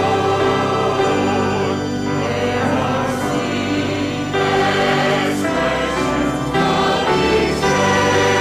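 Church congregation singing a hymn with instrumental accompaniment, its held low notes steady under the melody.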